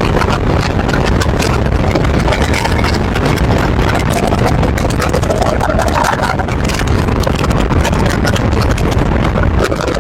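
BMW X5 cruising at high speed: steady, loud road, tyre and wind noise with a constant crackle.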